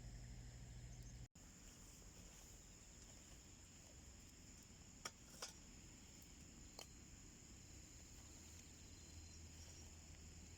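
Near-quiet wood fire burning in a small homemade wood stove, with a few sharp crackles of burning wood around the middle.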